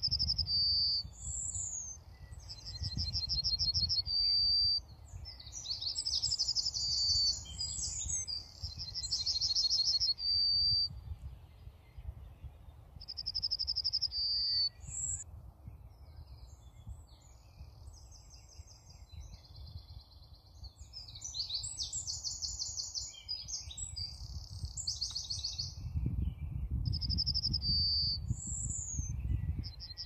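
Birds singing in repeated short phrases of fast high trills, several ending on a short clear note, with gaps of a few seconds between bouts. A low rumble runs underneath and grows louder near the end.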